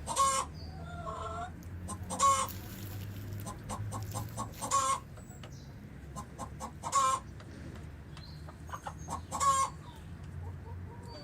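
Chickens clucking, with a loud call about every two and a half seconds and quieter clucks in between, over quick light clicks and a low steady rumble.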